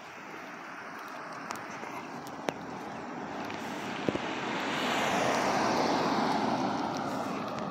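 A passing motor vehicle's engine and rush of noise, swelling to its loudest about five seconds in and then fading with a falling pitch as it goes by. A few sharp ticks sound over it.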